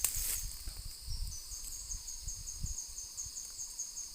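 Insect chirping in a steady, rapid pulse of short, high chirps, about five a second. A short rustle comes right at the start, with low bumps of handling or wind on the microphone.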